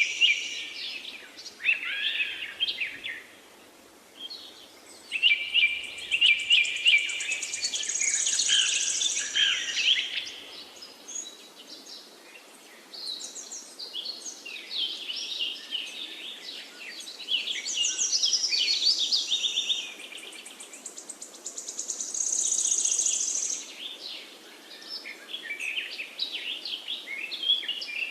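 Several songbirds singing and chirping together, a dense chorus of overlapping trills and quick chirps, some high and buzzy, over a faint steady background hiss.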